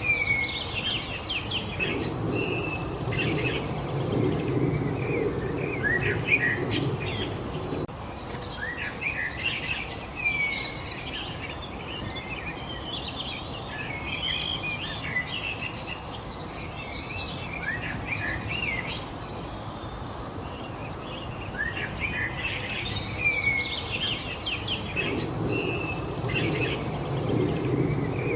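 Several small birds chirping and singing together in a dense chorus of short, quick high notes and whistles. A low rumbling noise rises under the birdsong twice, for several seconds each time.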